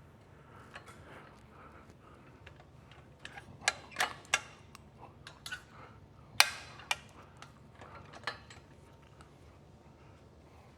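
Irregular metallic clicks and clanks from a pec deck machine being worked through reps, the loudest about six and a half seconds in.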